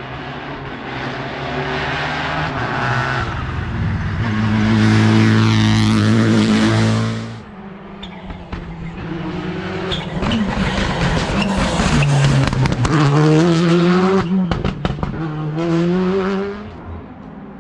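Modern rally car engines at full throttle on a special stage: one engine builds to a loud pitch and cuts off sharply about seven seconds in, then an engine climbs in pitch through gear changes, with a few sharp cracks, before it falls away near the end.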